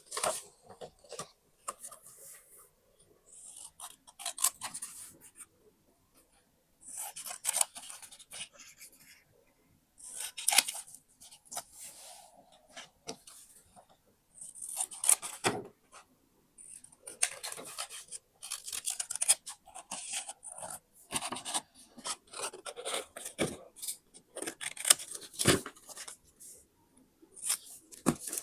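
Paper being cut with scissors and handled: crisp snipping and rustling in bursts of a second or two with short pauses between them, and a few sharp clicks.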